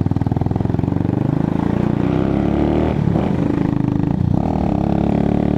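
125cc motorcycle engine running while riding slowly, its pitch shifting up and down several times as the throttle changes.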